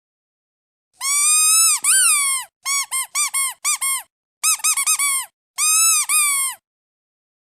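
Squeaky duck toy being squeezed: two long squeaks, then a run of short quick squeaks, and one last long squeak, each with a wavering, arching pitch.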